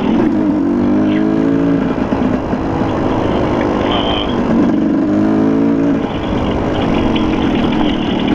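Dirt bike engine running, revving up twice: once just after the start and again about five seconds in, over a steady rumble.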